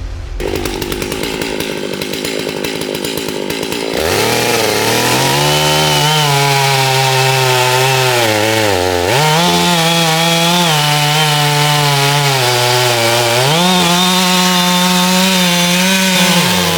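Holzfforma G660 92cc two-stroke chainsaw running, rougher and lower for the first few seconds, then at high revs. Its pitch sags and recovers twice.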